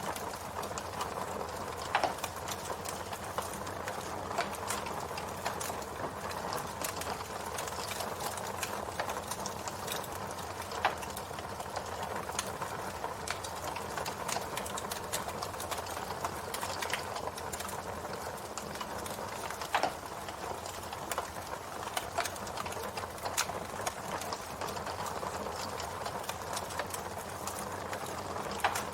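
Campfire burning with a steady crackle and hiss, dotted with frequent small snaps and a handful of louder pops spread through.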